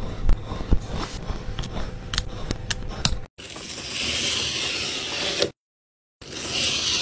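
Slime being handled, with many sharp crackling pops and clicks for about three seconds. Then, after a hard cut, a steady hissing scrape in two short stretches, each cut off abruptly by silent gaps.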